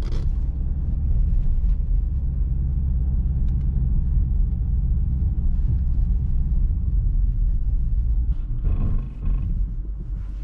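Subaru WRX's flat-four engine pulling hard in second gear as the car powers through deep snow and slushy water, a steady low rumble, with the wheels losing grip. The sound dips briefly about nine seconds in.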